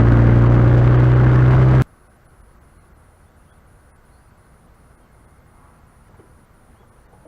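Honda Vezel Hybrid's engine through an aftermarket ROZA muffler, running with a steady drone, then stopping abruptly about two seconds in. A faint low hum is left.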